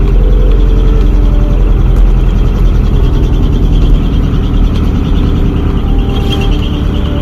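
Mitsubishi Fuso New Canter's 4.3-litre 4D33 four-cylinder diesel running loud and steady through a split exhaust manifold (mani-wari) and modified exhaust, built to give a banging, howling exhaust note.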